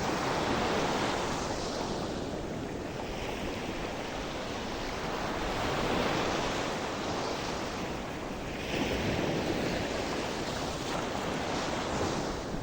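Gentle sea surf: waves washing in and draining back, the hiss swelling and ebbing every few seconds, with a fresh surge about two-thirds of the way through.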